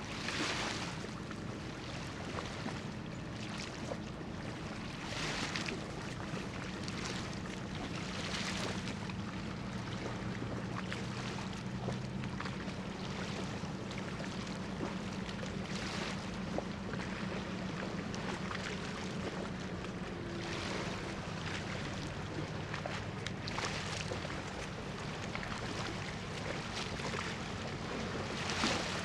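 Steady low drone of a cargo ship's engines, with a rushing noise that swells and fades every few seconds.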